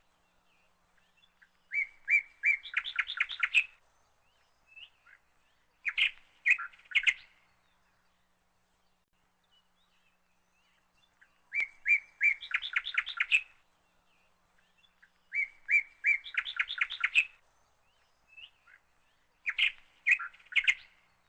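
Bird song: short bursts of rapid chirping trills, five phrases about every four seconds with silence between. The same long-then-short pair of phrases comes round twice.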